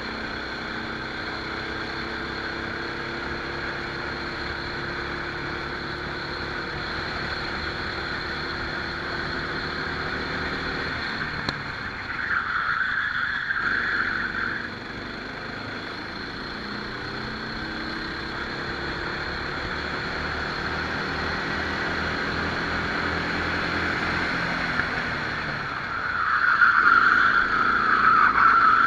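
Rental kart's engine heard onboard during a race, its pitch climbing steadily as it accelerates, dropping as it slows and then climbing again. Two louder stretches of high-pitched noise, each about two seconds long, come near the middle and at the end.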